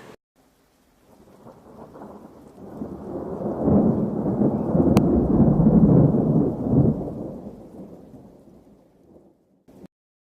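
A low rumbling noise that swells over a few seconds and then fades away, with a single sharp click near the middle.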